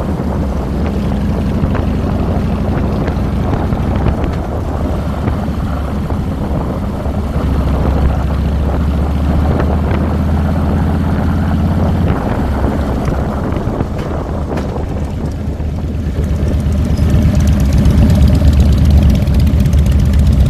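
A 2007 Harley-Davidson Fat Boy's Twin Cam 96 V-twin engine runs under way, heard close from the handlebars. The engine note eases off about halfway through and builds louder again in the last few seconds as the bike picks up speed.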